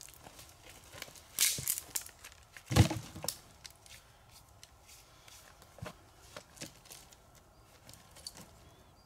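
Scattered crackles and rustles, a cluster of them about one and a half seconds in, and a heavy thump about three seconds in, followed by a few sparser clicks.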